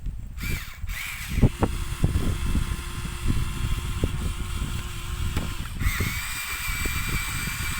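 Small electric motor whining, with scattered clattering knocks over a low rumble. A higher steady whine starts abruptly about six seconds in.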